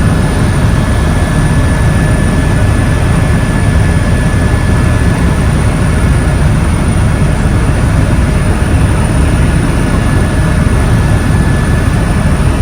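Helicopter running steadily in flight: a loud, even rumble with a thin steady whine over it.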